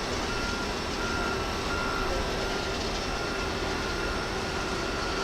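Steady vehicle and jet noise on an airport apron, with a high warning beep sounding on and off about once a second.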